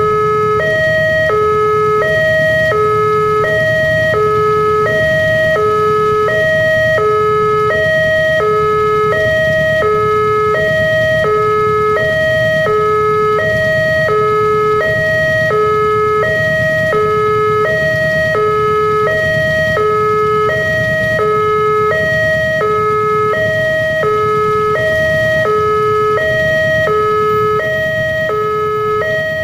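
Indonesian railroad level-crossing warning alarm sounding, an electronic two-tone signal switching between a higher and a lower tone about once a second. It means the barrier is down and a train is approaching or passing. A steady low rumble runs underneath.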